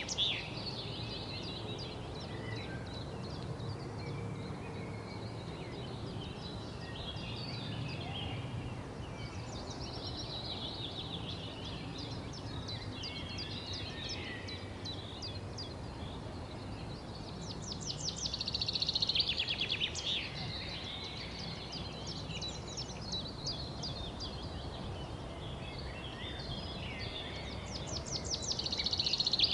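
Several songbirds chirping and singing over a steady low background hiss, with bursts of rapid trilling song that are loudest about two-thirds of the way through and again near the end.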